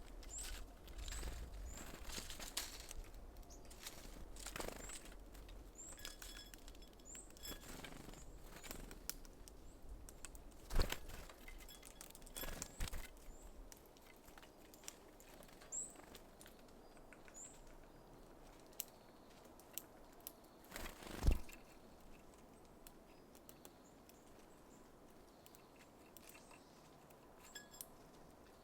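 Small songbirds at a feeder: brief high chirps and call notes scattered throughout, with a few sharp knocks and taps at the feeder, the loudest about two-thirds of the way in. A faint low rumble underneath stops about halfway.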